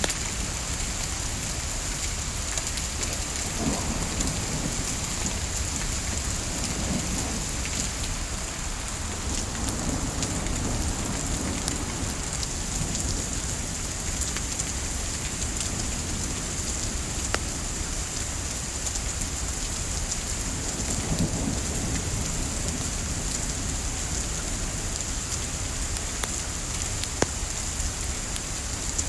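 Steady hiss of gentle rain with scattered sharp crackles from burning wood, and a few soft low rumbles.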